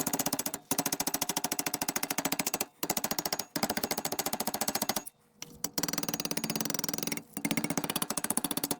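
Pneumatic hammer rattling against sheet steel: rapid, even strikes in runs of one to two seconds with short pauses, shaping a patch panel to put a slight curve in it.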